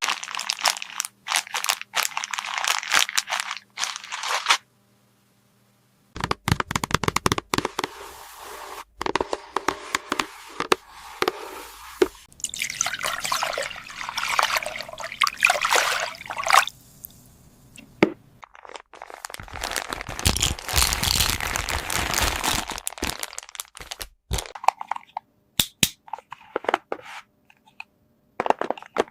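Water running and splashing in a miniature plastic toy playset in several runs a few seconds long, with small plastic clicks and taps between them.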